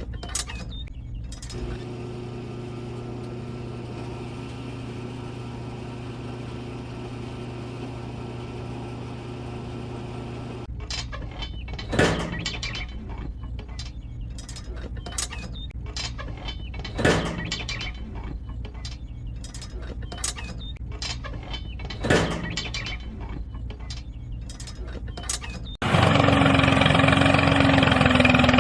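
Small motor-driven gear mechanism of a homemade mini tractor: a steady hum, then clicking and ratcheting with three loud clacks about five seconds apart. Near the end a much louder steady motor noise starts abruptly.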